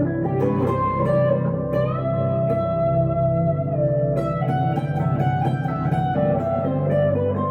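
Electric guitar playing a slow melodic line through a tube amp with delay and reverb, one note held and sustained for about two seconds in the middle; the rig is a 1962 Gibson Les Paul Custom into a Two-Rock Emerald Pro.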